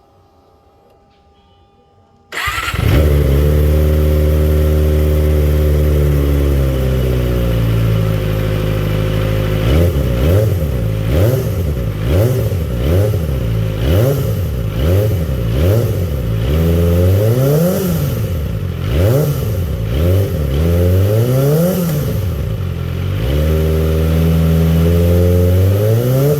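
Kawasaki ZX-25R inline-four engine breathing through an R9 Zeta aftermarket exhaust with its dB killer cut down. It starts about two seconds in, idles steadily, then is blipped through a run of quick revs, each pitch rising and falling, before settling back to a steady idle that climbs again near the end.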